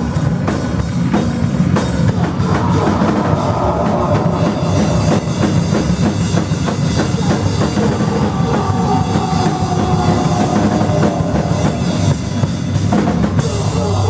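Live band playing loud rock music, with a busy drum kit beating out fast hits over a dense, continuous wall of sound.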